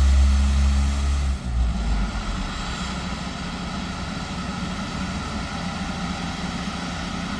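Heavy diesel equipment running at a road job: a loud, deep engine hum that changes abruptly about a second and a half in to a steadier, quieter machinery rumble.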